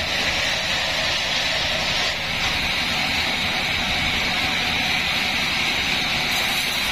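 A 36-inch band sawmill running steadily, its blade cutting through a mahogany log with a continuous hissing whine.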